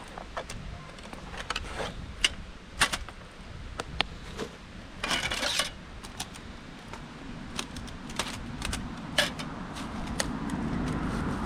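Scattered clicks and clacks of hard objects being handled, with a short rustling burst about five seconds in and a low rumble that swells near the end.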